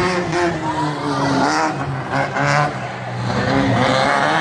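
Off-road race truck engine running, its note wavering slightly, getting louder again in the last second or so.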